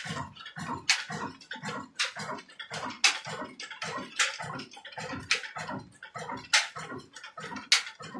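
Old Ruston Hornsby diesel engine running slowly while driving a chakki flour mill, a sharp loud crack about once a second over a quick train of lighter knocks and low thuds.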